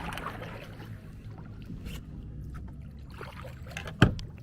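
Steady low drone of a distant engine, which the paddler takes for a motorboat, with small clicks of branches and paddle. A single sharp knock about four seconds in.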